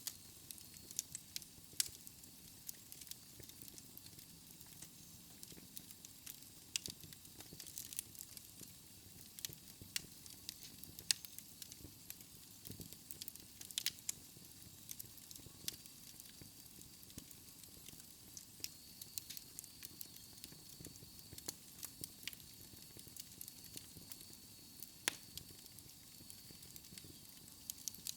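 Wood fire crackling in a fireplace: irregular sharp pops and snaps over a soft hiss, with a faint high steady whistle coming in about halfway through.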